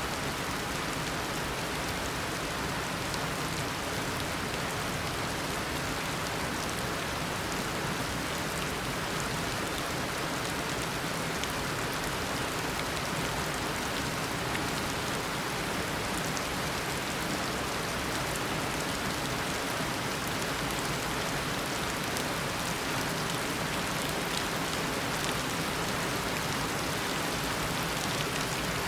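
Heavy tropical downpour: a steady, dense hiss of rain on surfaces with scattered individual drop patters.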